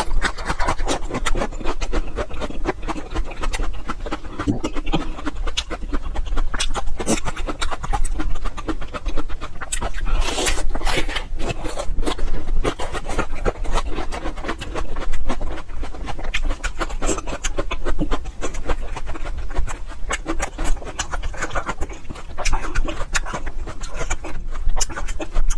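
Raw ginger root being bitten and chewed: a continuous run of fibrous crunching and wet mouth clicks, with audible breathing.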